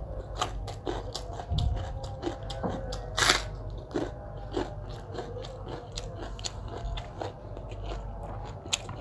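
Close-up eating sounds: food being bitten, crunched and chewed, a string of small sharp clicks with a louder crunch about three seconds in, over a low steady hum.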